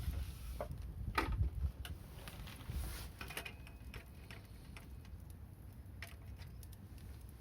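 Wood fire crackling: irregular sharp pops and ticks over a low rumble, the loudest pop about a second in.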